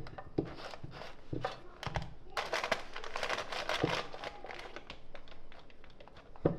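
Crinkling and rustling, like something being handled or crumpled, with scattered light taps and knocks. It is busiest a little after two seconds in.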